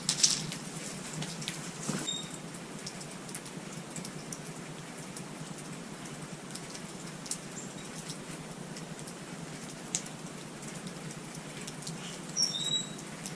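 Small birds at a feeder: a short high chirp about two seconds in and a couple more near the end, over a steady hiss scattered with light ticks and clicks.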